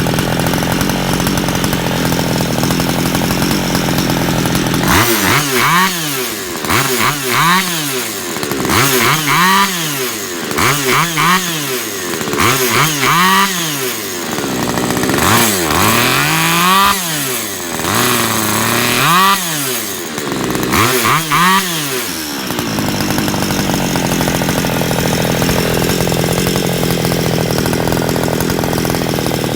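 Modified two-stroke brush cutter engine with a lengthened stroke, a motorcycle connecting rod and a chainsaw carburettor, idling steadily. About five seconds in it is revved up and let fall back about ten times in quick succession, then it settles back to a steady idle.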